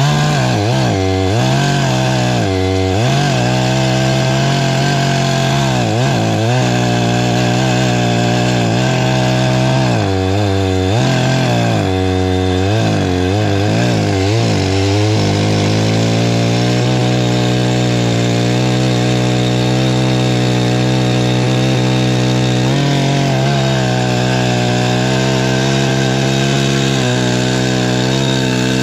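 84cc Perla Barb two-stroke chainsaw cutting firewood at high revs. Over the first half its engine pitch repeatedly dips and recovers as the chain bites into the wood, then it runs steadier, with one more dip near the end.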